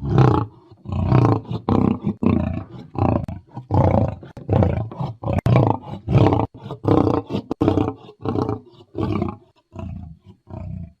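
African lion roaring: one bout of deep, pulsed roars at about two a second, the calls growing fainter and shorter near the end as the bout trails off into grunts.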